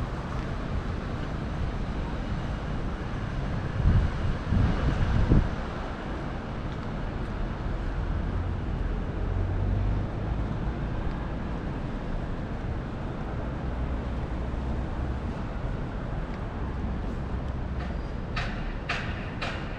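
Outdoor city background noise: a steady low rumble of vehicles. There are a few heavy low bumps about four to five seconds in, and a run of sharp ticks, about two a second, near the end.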